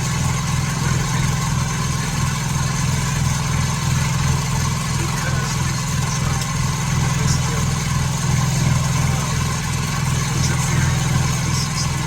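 Machine tool running steadily in a machine shop: a constant low hum with a regular pulsing underneath.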